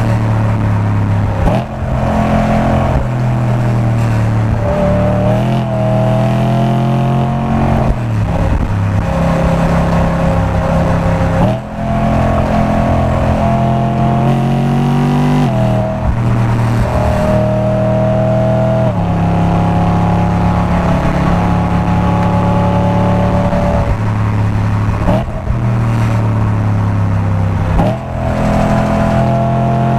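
Race-track car engine heard onboard under hard acceleration. It revs up through the gears with a brief drop in sound at each upshift or lift, several times over.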